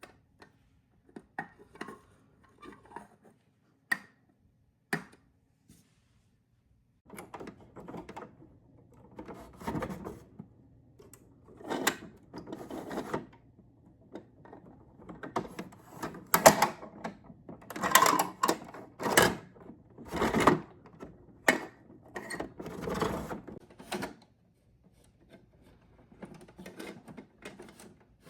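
Plastic parts of a Bruder toy garbage truck being handled and worked: scattered clicks and knocks at first, then about a second in a row of busier rattling and clacking from around seven seconds in, loudest in the middle.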